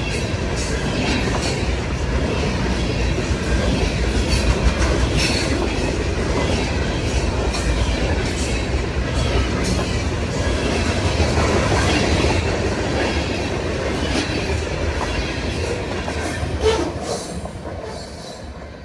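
Freight train cars rolling past at close range: a steady rumble of wheels on rail with scattered sharp clacks. It dies away near the end as the last cars pass.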